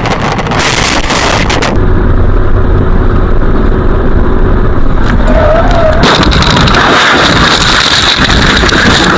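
A car crash heard from inside the car: low engine and road rumble, then a sudden loud rough noise from about six seconds in that continues as scraping and grinding.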